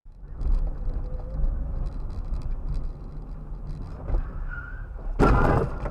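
Car in motion as picked up by a dashcam: a steady low rumble of engine and road noise, with one loud, sudden burst of noise lasting about half a second near the end.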